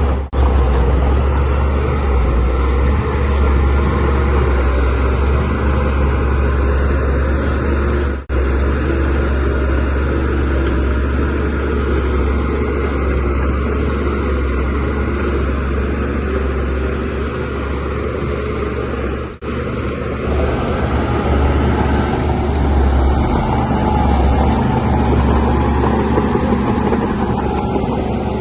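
Shantui DH17C3 Pro bulldozer's diesel engine running steadily under load while pushing soil, with a deep low rumble. It drops out briefly twice.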